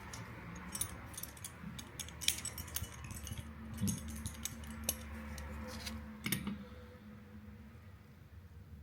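Light clicking and rattling of small hard objects being handled, the clicks coming in quick clusters, with a faint steady hum for a few seconds in the middle.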